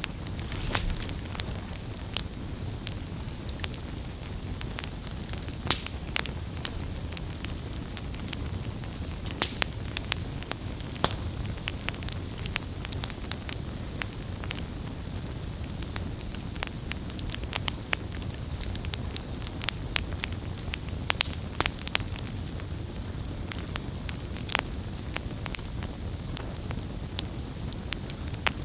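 Wood campfire crackling, with irregular sharp pops and snaps over a steady low hiss of burning.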